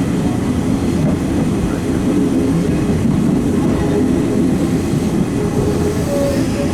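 Eizan Electric Railway Kurama Line electric train running between stations, heard from inside the front car: a steady rumble of wheels on the rails and the running gear, with some clickety-clack of the track joints.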